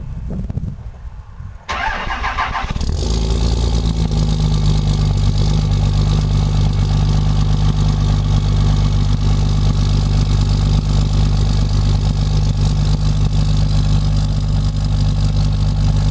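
Cummins diesel engine cold-starting at 20 °F with no block heater: the starter cranks briefly, the engine catches about three seconds in, and it settles into a steady high idle.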